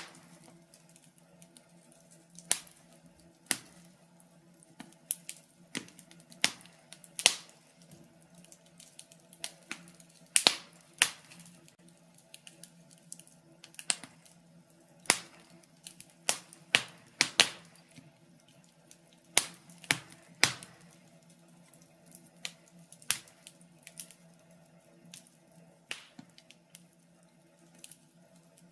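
Wood fire crackling in a fireplace: irregular sharp pops and snaps, several every few seconds, some louder than others.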